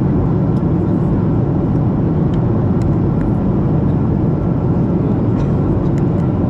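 Steady cabin noise inside a Boeing 737-700 during descent: a continuous low rumble of airflow and the CFM56 engines, heard from the passenger cabin.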